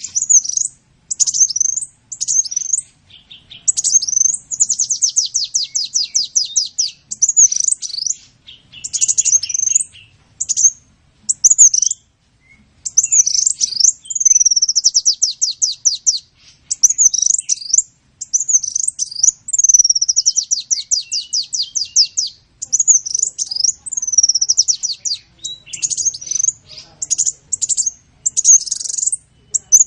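A sunbird singing: high-pitched rapid trills and sharp chirps in short phrases, one after another with brief pauses.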